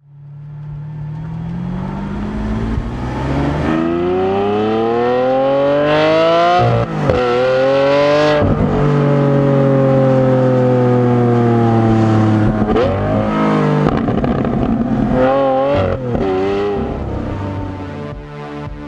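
Lamborghini Aventador LP700-4's V12 accelerating hard, its note rising for several seconds, breaking sharply at two quick upshifts about seven and nine seconds in. The revs then sag off-throttle, followed by a handful of short throttle blips near the end.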